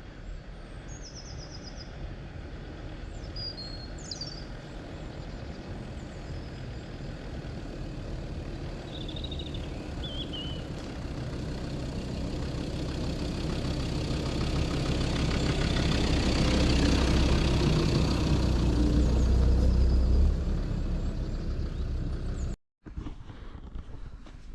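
A motor vehicle's engine and rumble growing steadily louder over several seconds as it approaches, then dropping off sharply. A few birds chirp in the first ten seconds.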